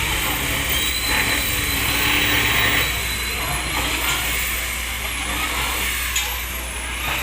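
Steady street traffic noise, a broad even hum of passing vehicles.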